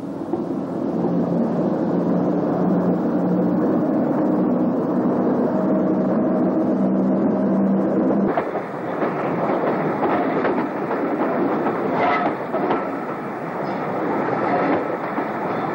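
A train running past close by: a steady hum with several held tones, turning at about eight seconds in to a rougher rumble with repeated clicks of wheels over the rails.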